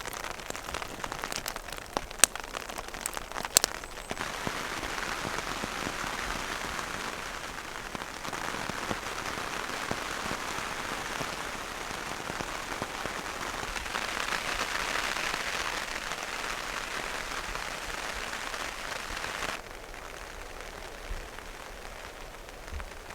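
Steady rain pattering on a tarp shelter overhead, with a few sharp taps in the first few seconds. The rain is heavier from about four seconds in and drops suddenly to a lighter patter near the end.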